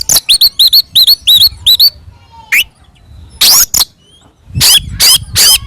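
Oriental magpie-robin (kacer) singing loudly in its aggressive, fighting-mode song: quick runs of short, sharp, rising whistled notes, about five or six a second, broken by a few louder harsh notes, with a short pause about halfway through.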